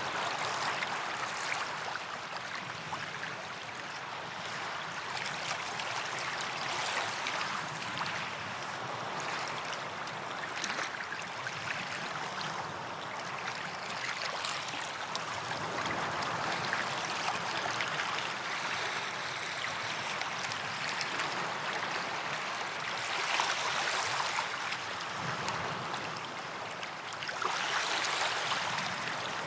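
Small waves washing onto a sandy beach: a steady hiss of surf that swells with each wave every few seconds, most strongly about three quarters of the way through and again near the end.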